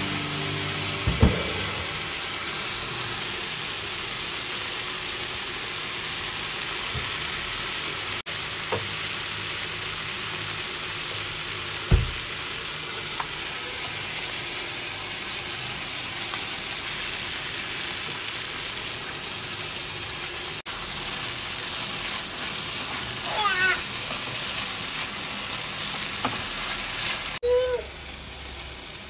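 Chicken pieces sizzling steadily as they fry in hot oil in a nonstick pan, with two sharp knocks, about a second in and about twelve seconds in.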